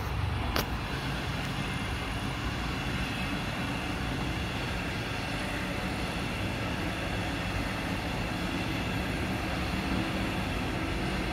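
Double-deck regional train coaches rolling past: a steady rush of steel wheels on the rails, with two sharp clicks about half a second apart at the start.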